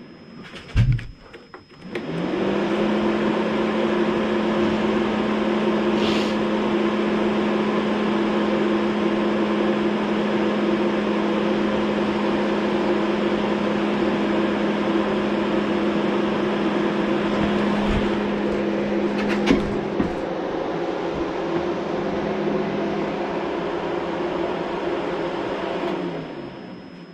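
A motor spins up about two seconds in, runs at a steady hum with a clear tone, then winds down near the end.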